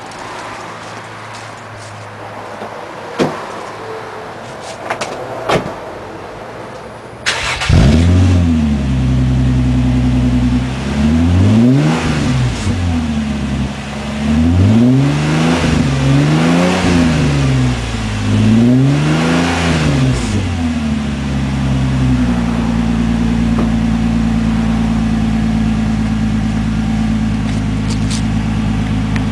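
2002 Nissan Altima exhaust through a custom cat-back and Magnaflow muffler: a few clicks, then the engine starts about seven seconds in. It is revved about five times, rising and falling, then settles to a steady idle near the end.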